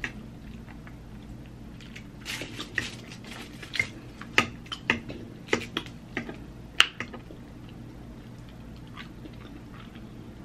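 A person eating close to the microphone: quiet wet chewing, with a run of sharp mouth smacks and clicks, most of them between about two and seven seconds in.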